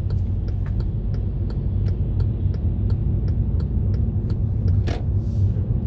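Car interior road and engine rumble with a turn-signal indicator ticking about three times a second. The ticking stops near the end with one sharper click, followed by a brief hiss.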